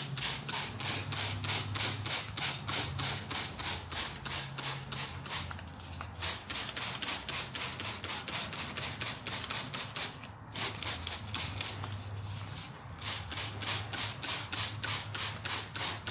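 Trigger spray bottle of cleaner squeezed rapidly, about three short sprays a second, soaking an engine bay. There are brief pauses about six and ten seconds in.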